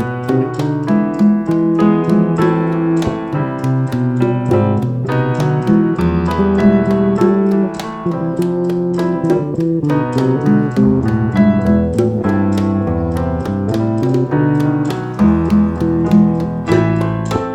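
Salsa band playing an instrumental passage led by piano, over a bass line and steady, evenly spaced percussion strikes.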